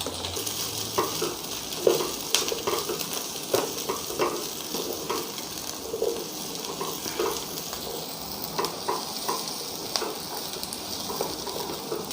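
Chopped capsicum, onion and ginger sizzling in hot oil in a pan over a medium-to-high flame. They are being stirred, with frequent light knocks and scrapes of the utensil against the pan.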